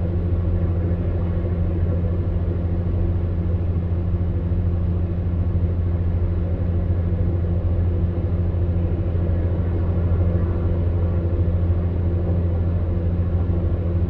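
Electric fan heater running: a steady low hum from the fan motor with a few steady tones above it and airflow noise over it.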